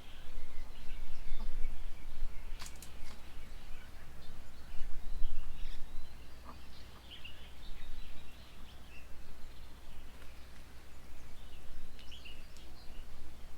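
Birds chirping and calling, many short high notes scattered throughout, with a couple of sharp clicks, one about two and a half seconds in and one near the end, over a low rumble.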